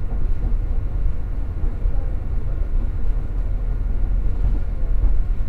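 Passenger train running at speed, heard from inside the carriage: a steady low rumble of wheels and running gear.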